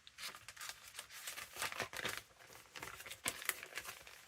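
Paper and printed card rustling and sliding as sheets are handled and shuffled, a run of quick, irregular crinkles and light taps.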